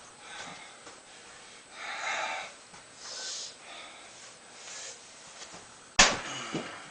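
A person's loud, hissing breaths, three or four of them, then a single sharp knock about six seconds in.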